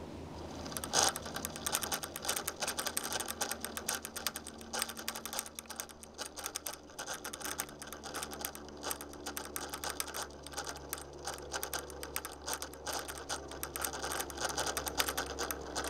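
Sony VAIO VGN-CS220J laptop cooling fan rattling in a fast, irregular stream of clicks over a steady low hum. The rattling starts about a second in and stops near the end. It is the sign of a failing fan, a known fault on this model that Sony acknowledged.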